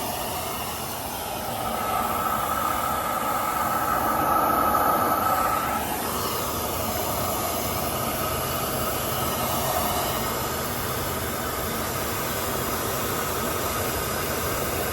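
A 1/8-scale ride-on railroad train running along the track, with a steady hiss and a held high tone from about two to six seconds in.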